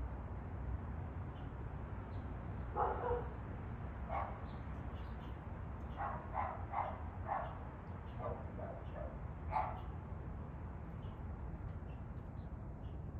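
A dog barking about ten times in short runs, over a steady low rumble.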